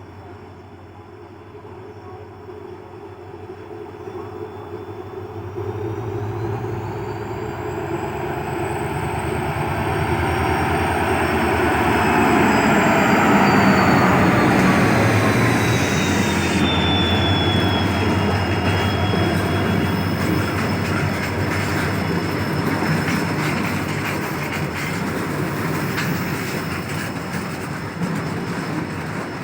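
A WDG4 diesel-electric locomotive hauling a goods train approaches and passes, growing louder over the first dozen seconds, with a high whine that rises and then falls in pitch as it goes by. The wagons then roll past with a steady rumble and rapid wheel clatter on the rails.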